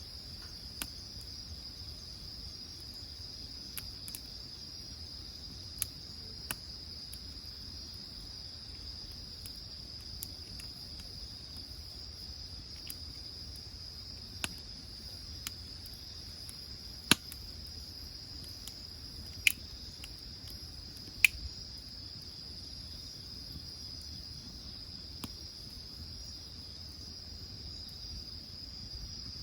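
Insects trill steadily at a high pitch. A wood fire gives sporadic sharp pops and crackles over it, the loudest three coming in the second half.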